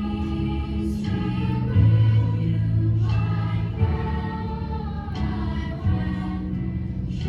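A choir singing over a low, steady bass accompaniment, each note held for a second or two.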